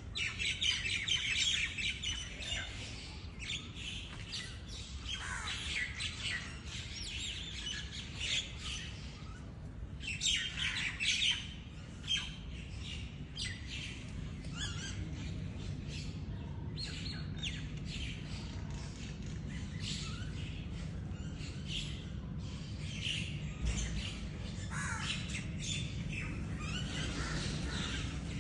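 Many birds calling at once: a busy stream of short, overlapping calls, some of them sweeping down in pitch, over a steady low rumble.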